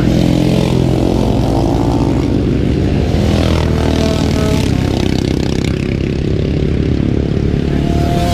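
Racing motorcycles at high revs, passing at speed on a tight road circuit, their engine notes rising and falling.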